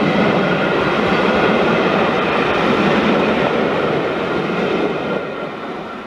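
Passenger coaches rolling past on the rails. The wheel noise is steady, then fades from about five seconds in as the last coach goes by.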